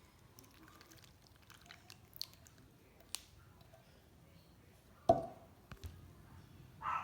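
Quiet kitchen handling sounds: scattered light clicks and taps, with one sharper knock about five seconds in.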